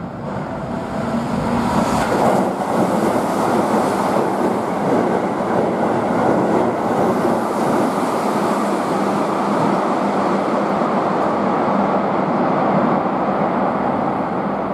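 Keihan 8000 series limited express train running through the station at speed without stopping: a loud, steady rush of wheels on rail and running noise.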